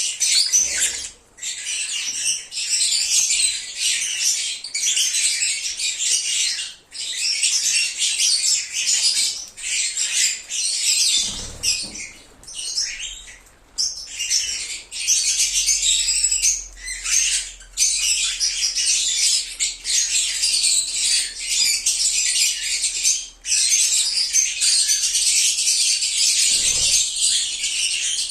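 A flock of lovebirds (Agapornis) chattering nonstop: many shrill chirps and squawks overlap, with only a few short pauses.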